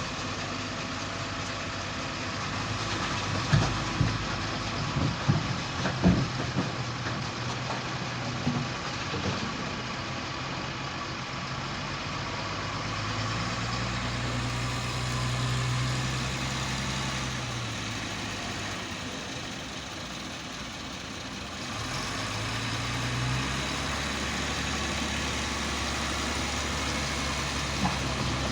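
Heavy truck engine running steadily, with its pitch rising and falling a couple of times. A run of sharp knocks comes a few seconds in.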